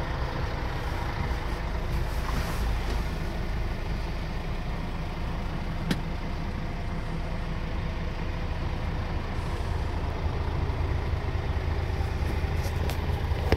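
Scania R 450 truck's 13-litre six-cylinder diesel idling steadily, with a single sharp click about six seconds in.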